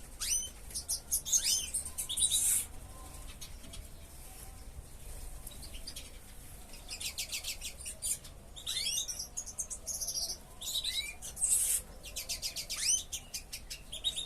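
Many small ornamental cage birds chirping and calling together: fast runs of high chirps mixed with short calls that glide up and down in pitch.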